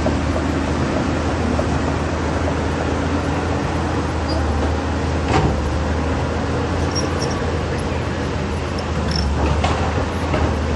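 Caterpillar 320D excavator's diesel engine running steadily with a deep hum, with a sharp knock about halfway through and another near the end.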